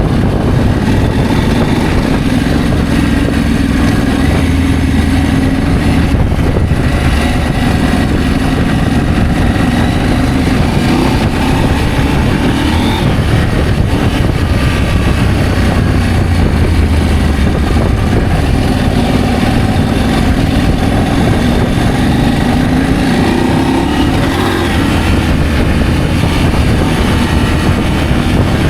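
Adventure motorcycle engine running while riding, its pitch rising and falling gently with the throttle, over a steady rush of wind noise.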